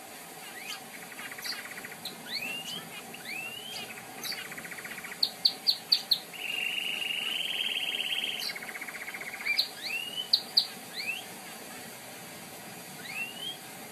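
Canary singing: quick rising chirps and buzzy trills, a run of sharp high notes about five seconds in, then a loud rolling trill held for about two seconds, with more sharp notes and chirps after it.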